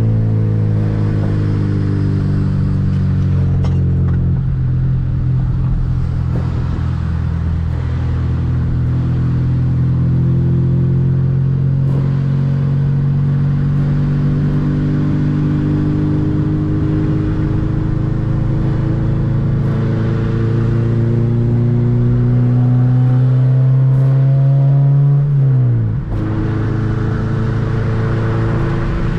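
2007 Honda Civic Si's 2.0-litre four-cylinder engine running under load, its note climbing slowly for about twenty-five seconds, then dropping abruptly and holding steady.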